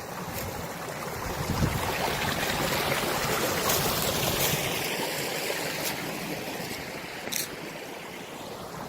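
Mountain stream flowing, a steady rush of water that swells in the middle and eases toward the end, with a couple of short clicks late on.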